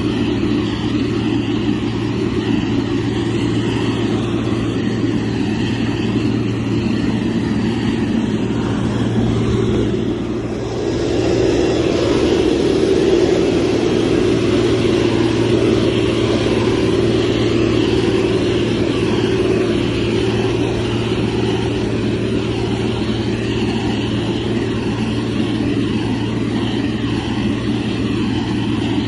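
Motor grader's diesel engine running steadily under work, with a brief dip about ten seconds in, after which it runs a little louder.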